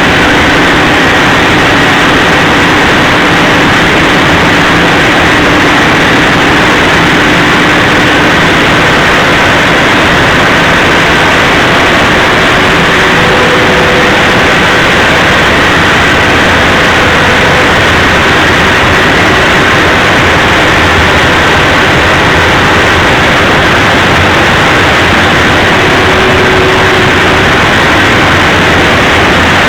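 Large diesel generator engines running steadily, a loud, constant drone that does not change.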